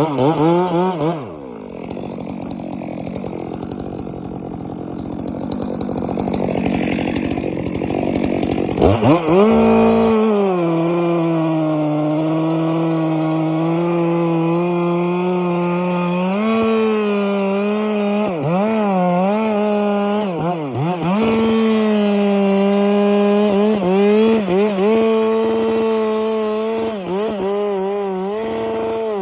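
Chainsaw running at high revs and cutting through a pine trunk. It sounds rough at first, then settles into a steady high whine about nine seconds in, its pitch sagging and recovering a few times under load.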